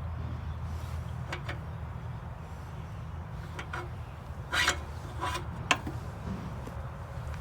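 A steady low mechanical hum with a few short scrapes and clicks of metalwork. The loudest are a scrape about halfway through and a sharp click just after it.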